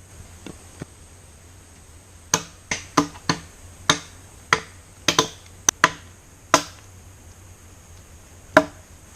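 A series of sharp knocks, about a dozen at uneven intervals, each with a short ring, over a steady high hum.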